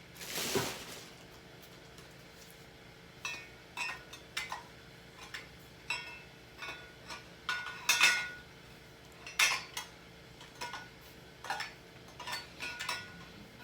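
Saladmaster stainless steel pots and lids clinking and knocking together as they are handled: a brief swish at the start, then a long run of sharp, ringing metal clinks.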